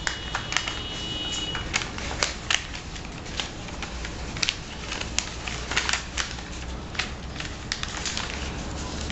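A sheet of origami paper being folded and creased by hand: irregular crinkling with sharp paper clicks and snaps.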